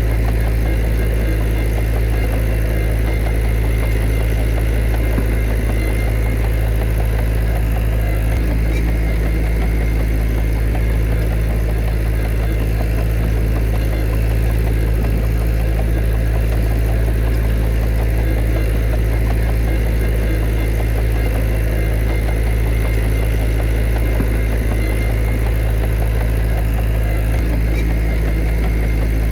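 Diesel engine of heavy earthmoving machinery running steadily: a deep, even hum with no change in pitch or level.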